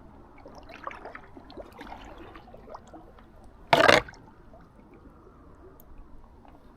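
Water dripping and trickling around an inflatable kayak, with small light splashes, and one short loud burst of noise a little under four seconds in.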